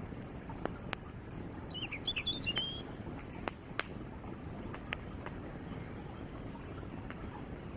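Wood campfire crackling, with sharp irregular pops and snaps over the steady rush of a flowing creek. A small bird chirps briefly about two to three seconds in.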